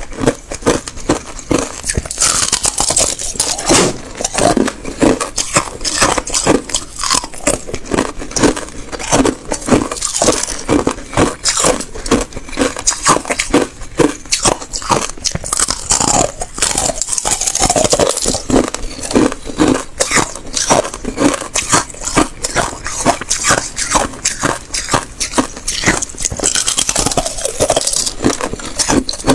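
Close-up crunching of thin ice being bitten and chewed: rapid, dense cracks and crackles with scraping, going on without a break.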